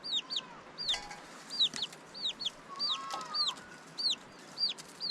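Chicks peeping over and over: short, high, falling peeps about twice a second, with a lower call from another fowl a little past halfway.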